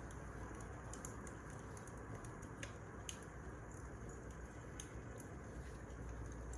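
Wood fire crackling: a steady low hiss with irregular sharp pops and snaps.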